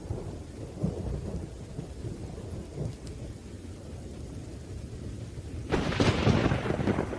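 Rain falling steadily under low rolling thunder, with a louder, sharper thunder crack breaking in near the end.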